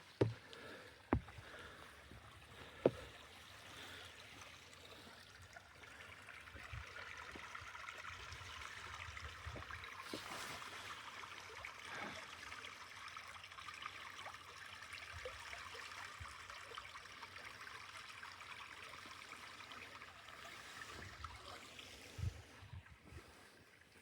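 Small woodland stream running, a steady trickle that grows louder about six seconds in, with a few sharp snaps or footfalls in the first three seconds.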